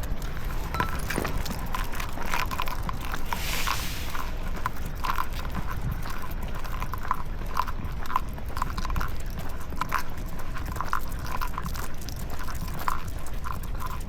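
Light, irregular clicks and taps of walking on pavement, a few a second, over a steady low rumble.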